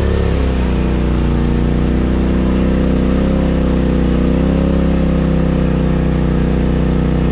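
Side-by-side UTV engine running at a fairly steady speed, its pitch drifting slightly up and down.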